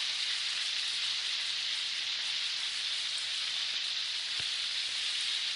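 Chicken pieces frying in hot oil, a steady sizzle, still cooking through.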